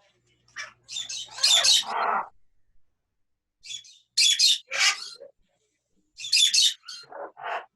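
Parrots squawking: loud, harsh, high calls in three short clusters a couple of seconds apart, with a few lower, rougher calls among them.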